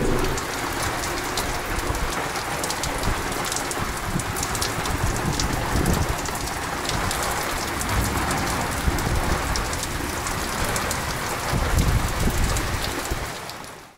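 Heavy rain pouring onto wet paving stones and a porch roof: a steady hiss thick with the patter of drops. A low rumble swells briefly near the end, then the sound fades out.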